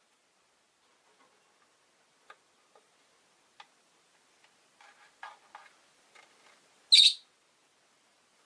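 Rosy-faced lovebirds: a scatter of faint ticks and soft chirps, then one loud, sharp, high-pitched call about seven seconds in.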